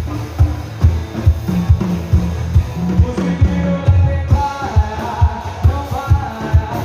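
Live sertanejo band music with a steady drum beat, a little over two beats a second, and bass; a melody line comes in about three seconds in.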